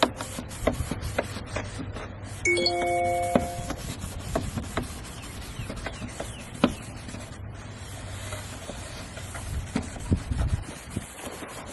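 Sandpaper pad rubbed up and down over a wet plastic headlight lens by hand, a steady scratchy rasping with small clicks: the first, coarsest sanding stage of taking the yellowing off the lens. A short electronic chime of a few held tones sounds about two and a half seconds in.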